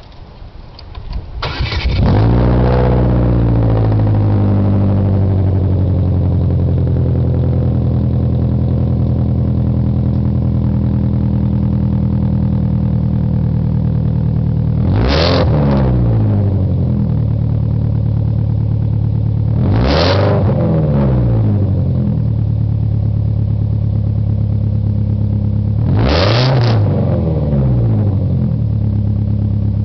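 A 2003 Chevrolet Cavalier with a header, MagnaFlow catalytic converter and custom exhaust starting up about a second and a half in: its rpm flares and settles to a steady idle. The throttle is then blipped three times, a few seconds apart, each rev rising and falling back quickly. The muffler sound is a little distorted by the recording.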